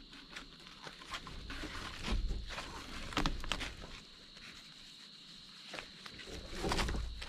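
Footsteps and the crackle of dry brush and twigs, irregular, with louder bouts of rustling a couple of seconds in and near the end, over a faint steady high-pitched tone.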